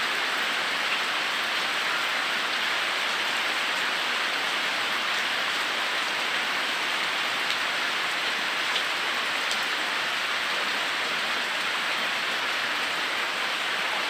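Rain falling steadily, an even hiss with occasional faint drop ticks.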